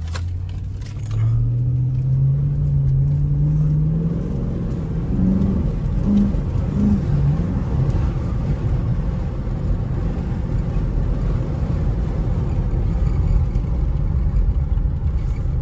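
Chrysler 300 SRT8's Hemi V8 pulling away, its engine note rising over the first four seconds. It then runs steadily under a rumble of road and wind noise in the cabin.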